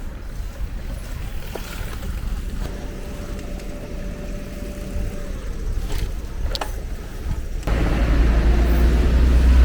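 Steady low rumble of outdoor street ambience, with a few faint clicks, jumping suddenly to a louder rumble near the end.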